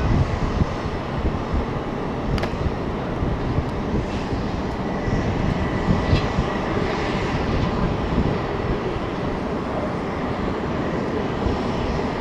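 Jet aircraft engines running with a steady rumble and a faint high whine.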